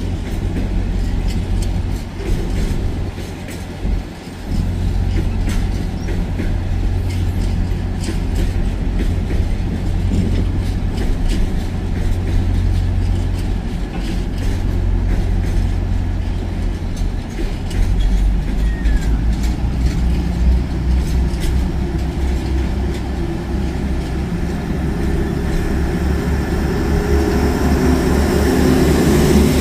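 Train at the platform running with a loud, steady low drone and faint clicks, the drone shifting about eighteen seconds in and growing a little louder toward the end.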